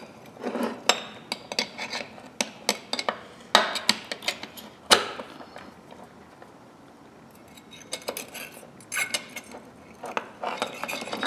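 Small metal tool parts clinking and clicking as they are handled: a pair of locking pliers and a spring being picked up and fitted. The sharp clinks come irregularly, stop for about two seconds midway, then resume.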